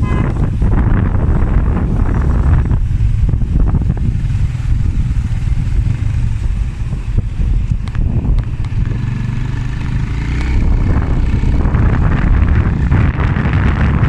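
Wind buffeting the microphone on a moving motorbike, over a low engine and road rumble. The noise eases slightly for a few seconds in the middle, then builds again.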